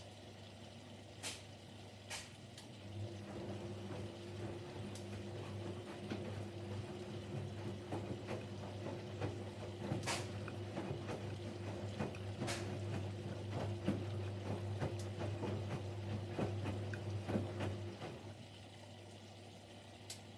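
Siemens Siwamat Plus 574 front-loading washing machine in its second rinse: after a pause with a couple of sharp clicks, the drum motor starts about three seconds in with a low hum and the laundry sloshes and splashes in the rinse water as the drum turns, then the motor stops a couple of seconds before the end.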